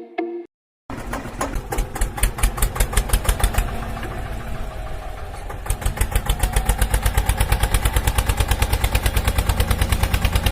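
Small engine chugging steadily with evenly spaced firing pulses, about eight a second. The pulses grow louder and sharper about six seconds in.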